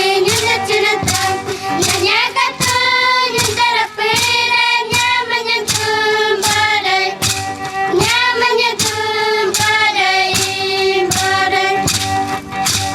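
Group singing in which children's voices stand out, with sustained, gliding sung notes over a steady percussion beat struck about twice a second.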